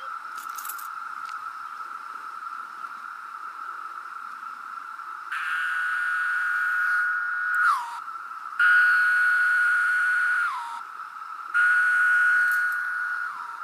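Chorus of 17-year periodical cicadas: a steady, high drone from many insects. Three louder calls from nearby cicadas rise above it, each about two seconds long and ending with a falling slur in pitch.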